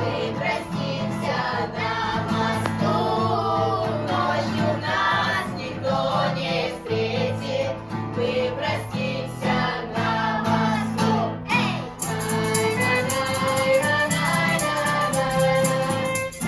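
Russian romance sung by a group of voices over a steady instrumental accompaniment. About twelve seconds in, a bright high shimmer joins the accompaniment.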